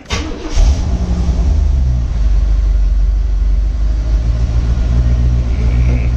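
1986 Chevrolet Corvette C4's 5.7-litre L98 V8 cold-started from the driver's seat: the starter cranks briefly, the engine catches in under a second and settles into a steady idle.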